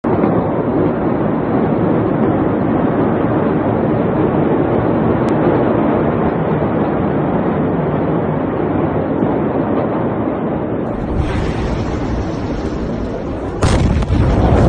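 Steady, loud noise, then near the end a sudden loud blast followed by a sustained rumble: the Beirut port explosion of stored ammonium nitrate.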